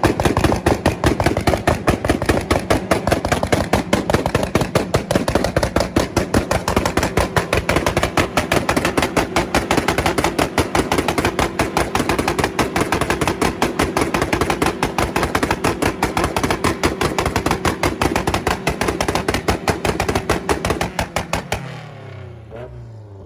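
Tuned car engine held on a two-step launch-control rev limiter, the exhaust banging and popping in a rapid, unbroken machine-gun-like string. Near the end the revs drop away and the popping stops.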